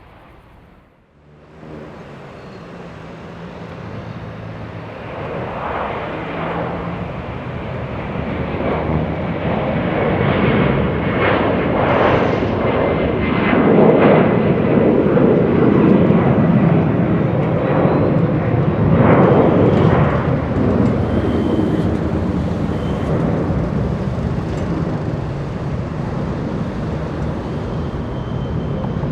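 An airliner's engines passing close by: the noise builds steadily for about ten seconds, is loudest in the middle, then eases off a little.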